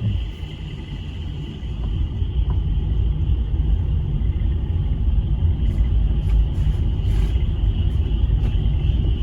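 A dense chorus of frogs calling, a steady high trill, under a loud low rumble that grows about two seconds in.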